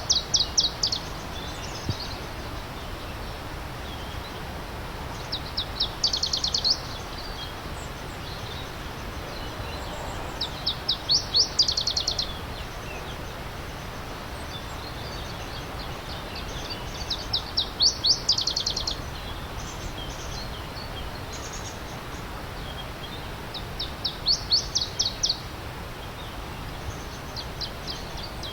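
A songbird repeating the same short phrase of quick, high notes about every six seconds. Under it runs the steady rush of a stream.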